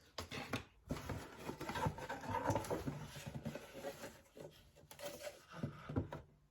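Rustling and scraping of paper and cardboard with a few light taps as printed box contents, an instruction booklet and a sticker sheet, are handled and lifted out.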